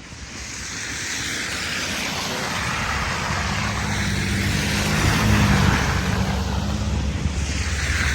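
A motor vehicle driving past on a snowy, slushy road: engine hum and tyre hiss grow louder over the first few seconds and stay strong to the end.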